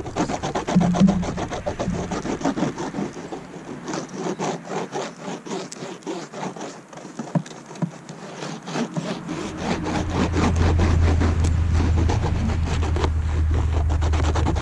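Beeswax being rubbed onto white beehive frame foundation in quick repeated strokes, a dry rubbing and scraping. A low steady rumble comes in about nine to ten seconds in.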